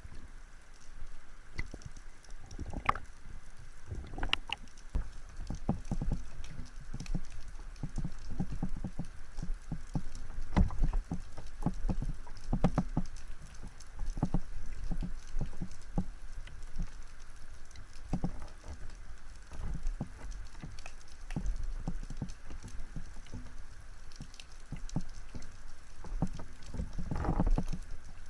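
Water noise from a diver's camera in the water: many irregular clicks and knocks with low thuds over a steady hiss.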